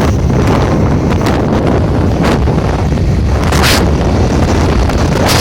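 Loud, steady wind buffeting the microphone over a deep rumble, with a few short gusts of hiss, the strongest about two and three and a half seconds in.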